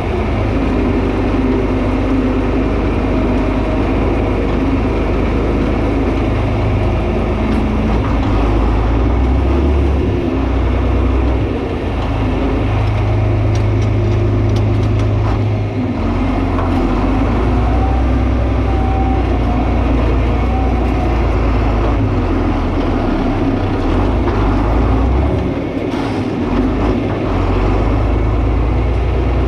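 John Deere 4320 tractor's six-cylinder diesel engine running steadily under load, its low pitch shifting up and down several times as the load changes, with a few faint clicks.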